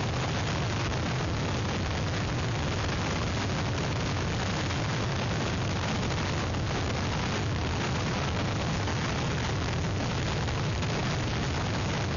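Hurricane wind blowing hard across the webcam's microphone, a loud, unbroken rush of noise with a heavy low rumble from the wind buffeting the mic.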